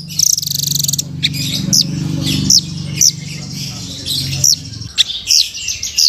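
Velvet-fronted nuthatch (rambatan) calling: sharp, high chip notes that slide down in pitch, repeated at irregular intervals, with a rapid high trill in the first second. A low steady hum runs underneath and stops about three-quarters of the way through.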